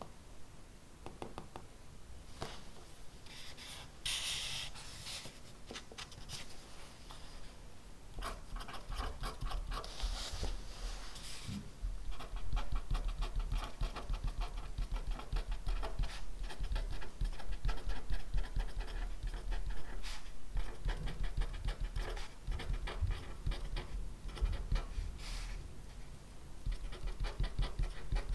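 Handwriting on paper: a steady run of quick scratching strokes that gets busier and louder about a third of the way in, with a couple of brief swishes early on.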